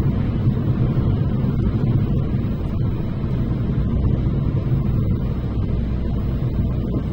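Steady low rumble of a vehicle in motion, even in level throughout.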